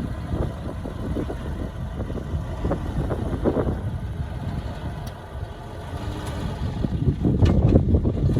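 Diesel engine of heavy earthmoving machinery running under work, with a rough rattle, growing louder about seven seconds in.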